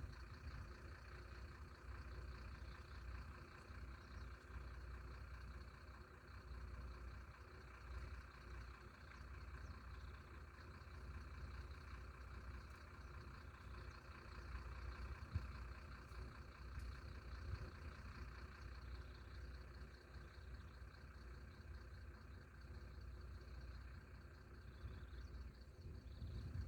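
A faint engine running steadily at idle, a low rumble with no change in speed.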